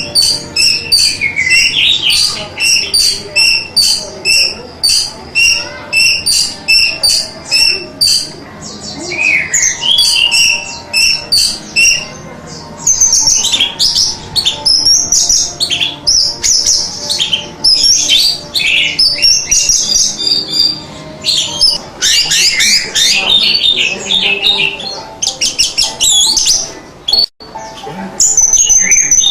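Orange-headed thrush (anis merah) singing continuously: first a run of short, high chirps repeated about twice a second, then faster, varied phrases with rapid trills. There is a brief break in the sound near the end.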